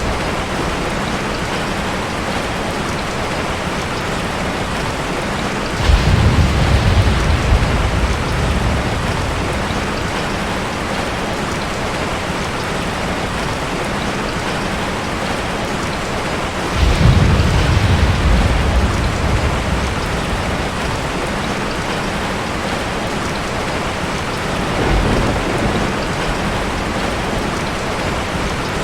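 Steady heavy rain falling, an even hiss, with thunder rumbling in twice, each rumble breaking in suddenly and fading over a few seconds, and a fainter rumble near the end.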